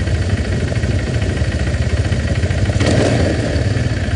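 Motorcycle engine running with a steady, fast low pulsing, and a brief burst of noise about three seconds in.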